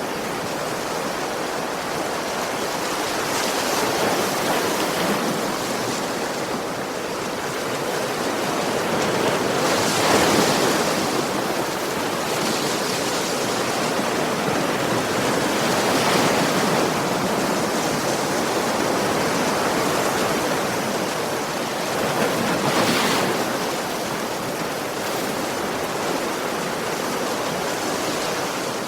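Sea waves breaking and washing up on a beach, a steady hiss of surf that swells with each wave about every six seconds, loudest about ten seconds in.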